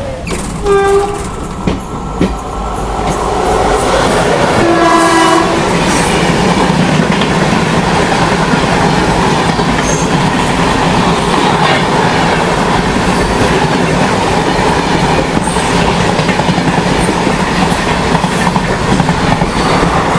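Amritha Express departing: the train horn sounds twice, a short blast about half a second in and a longer, lower one around five seconds. Then comes the steady rumble and clatter of the moving train, which grows louder over the first few seconds and holds.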